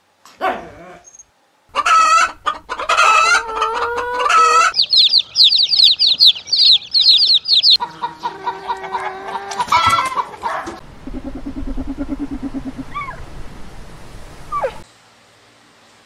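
Chickens clucking and squawking in a string of short, changing calls, with a rapid run of high chirps in the middle and a low, steady pulsing cluck later on.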